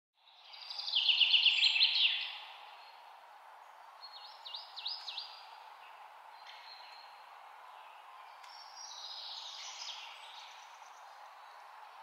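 Songbirds singing: a loud, fast run of high notes about a second in, a few quick sweeping notes around four to five seconds in, and another high phrase near nine seconds, over a steady background hiss.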